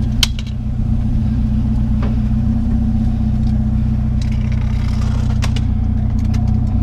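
A vehicle engine idling steadily, with a few short, sharp knocks from handling scrap.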